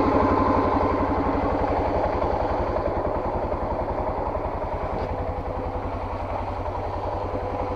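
A small off-road vehicle's engine idling, with an even, steady pulse.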